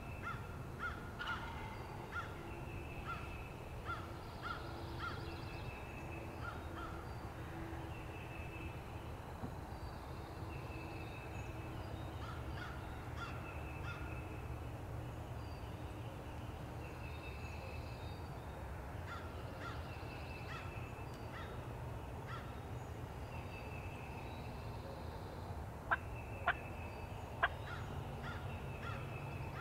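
Songbirds singing short repeated phrases over a steady low rumble. Near the end, a few sharp, loud calls from a wild turkey gobbler.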